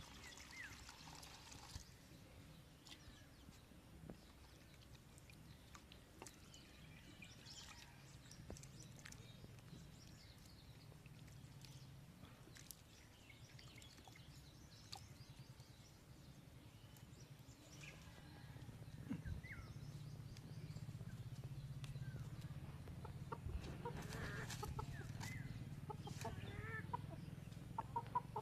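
Domestic chickens clucking faintly, with short calls clustering near the end, over a steady low hum that grows louder about two-thirds of the way through.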